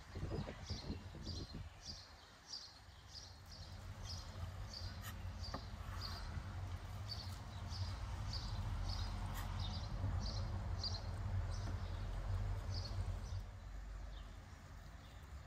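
A bird repeating a short high chirp about twice a second, stopping a couple of seconds before the end, over a steady low rumble; a few soft knocks near the start.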